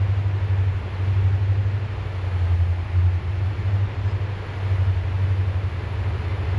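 Low, steady rumble of an approaching train, swelling and fading slightly in strength.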